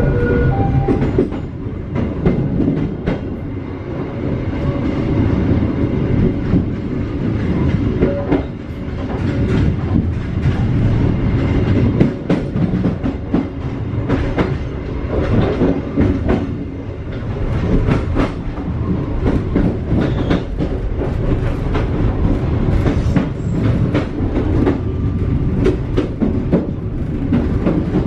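Passenger train running over the track, its wheels clicking and clacking over rail joints and switch points as it runs into a station yard, heard from inside the carriage under a steady low rumble.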